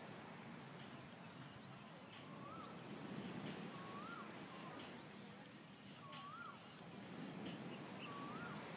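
A bird repeating a short whistled call that rises and then drops, four times about two seconds apart, with a few faint higher chirps, over a faint low steady background noise.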